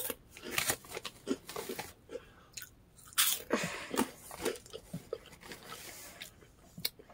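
A person chewing Chester's Hot Fries, a crunchy corn snack, close to the microphone: a run of irregular crunches.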